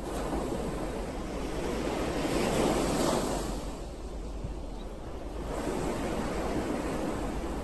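Ocean surf: one wave swells up to a peak about three seconds in and draws back, and the next rises near the end.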